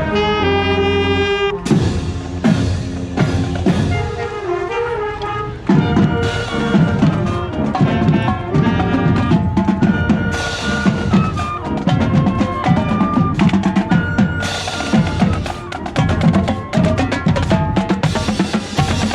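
Marching band playing: brass holding chords at the start, then snare and bass drums come in with a driving beat under the horns.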